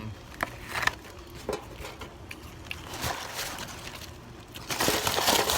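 Fast-food packaging and food being handled: a few light taps and rustles, then a longer, louder rustle near the end.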